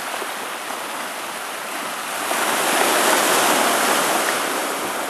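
Storm-driven waves during a hurricane surge, rushing and washing against the shore in a steady roar of surf that swells louder about two seconds in and eases a little near the end.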